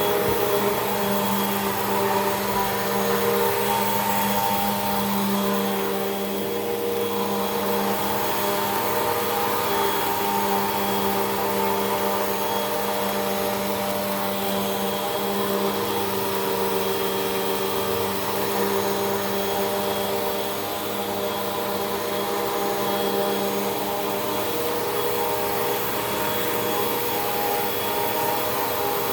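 Hoover WindTunnel 2 Rewind upright vacuum cleaner running steadily, its motor whine of a few steady pitched tones over a rushing air noise as it vacuums.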